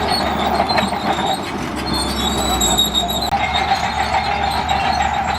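Crawler bulldozer running under load, its steel tracks squealing and clanking steadily over the diesel engine's drone.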